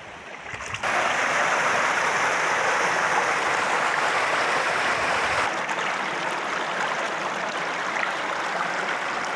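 Spring-fed mountain stream running, a steady rushing hiss of flowing water that comes in suddenly about a second in and becomes slightly quieter a little past halfway.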